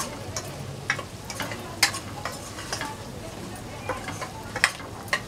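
Stuffed brinjals frying in hot oil with a steady sizzle, while a steel spoon stirs them and knocks sharply against the pot about five times.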